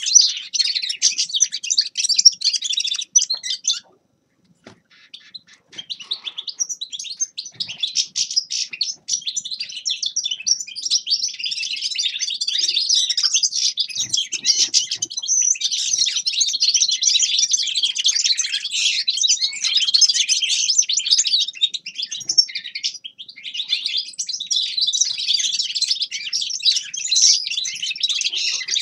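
A finch singing a rapid, continuous twittering song, with a break of about two seconds a few seconds in.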